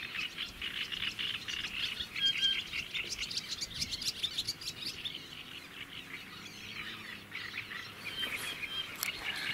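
Birds singing and chirping in quick runs of short high notes, busiest over the first half and again near the end.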